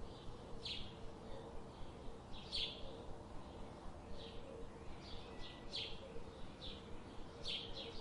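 Songbirds chirping: short, separate chirps that come irregularly, about one or two a second, over a steady background hiss and a faint low hum.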